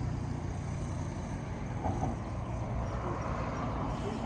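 Steady low hum of road traffic, vehicle engines and tyres running without a break.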